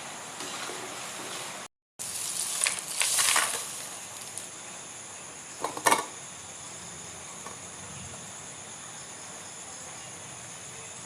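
Food frying in hot oil with a steady sizzle, broken by a short cut about two seconds in, and a few louder knocks and scrapes of a utensil around three seconds in and again near six seconds.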